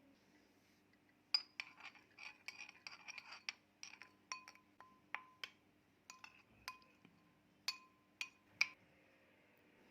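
A utensil clinking again and again against a glass bowl, as when stirring or mixing, in quick irregular taps that each ring briefly. The taps come thickly for a couple of seconds, then more sparsely, the last one near the end being the loudest.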